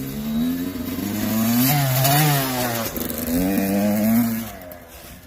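Kawasaki KX85 two-stroke dirt bike engine revving up and falling back in two swells, the second dying away about four and a half seconds in.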